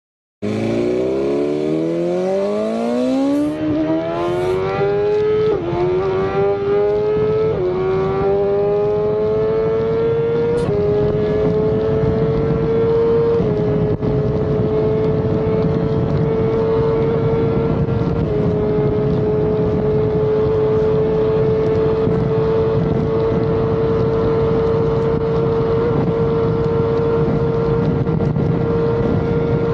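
BMW S1000RR's inline-four engine under hard acceleration, revving up through the gears: the pitch climbs steeply and drops briefly at each of several quick upshifts over the first twenty seconds, then holds a high, steady note at speed.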